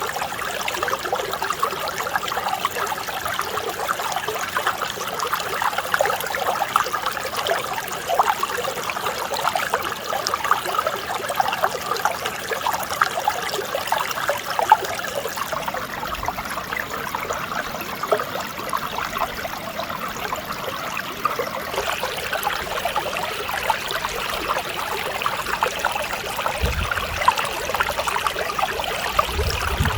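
Mountain stream flowing and splashing over rocks, a steady rush of water with many small splashes throughout; the splashing turns a little brighter about two-thirds of the way through.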